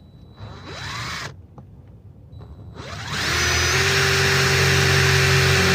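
Power drill driving a screw into the gutter outlet: a short spin-up with a rising whine about half a second in, then from about three seconds in the motor spins up and runs steadily.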